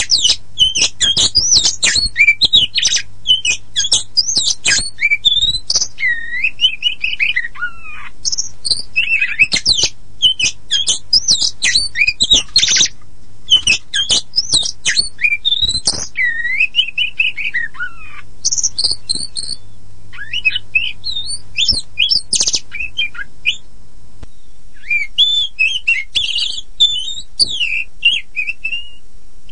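Oriental magpie-robin (kacer poci, the black-and-white form) singing a varied, rapid song of whistled phrases, slurred glides and sharp clicking chips, with a short pause a little past the middle.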